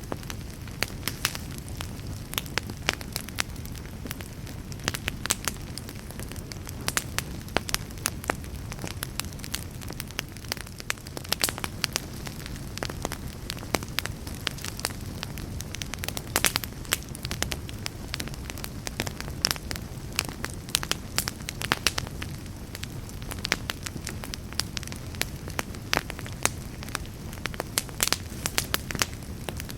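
Wood fire in a fireplace crackling and popping, with many irregular sharp snaps over a low, steady rushing of the flames.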